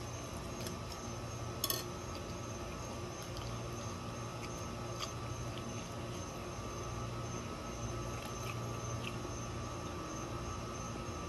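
Soft chewing and lip-smacking clicks, a few scattered, the clearest about two seconds in, from a person eating barbecue ribs, over a steady low hum with a faint high tone.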